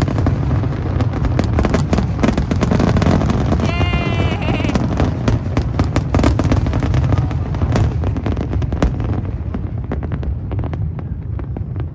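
A fireworks display: a rapid, dense run of bangs and crackles over a continuous low rumble, thinning out after about nine seconds. A short pitched sound rises and wavers about four seconds in.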